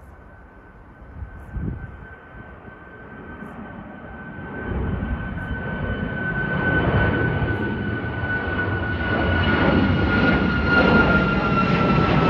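Boeing 737 MAX 9's CFM LEAP-1B turbofans as the airliner departs: a jet roar with a high steady whine, growing steadily louder from about four seconds in. A brief low bump about a second and a half in.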